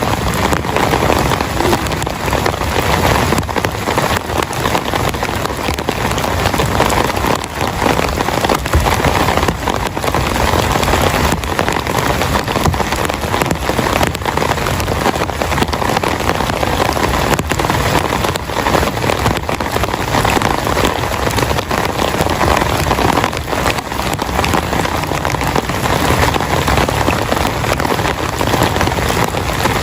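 Heavy rain falling steadily, a dense, even patter of drops on a surface.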